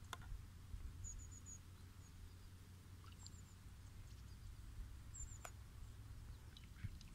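Faint, very high chirps of small birds in three short runs, over a low, steady background rumble. A sharp click comes about five and a half seconds in.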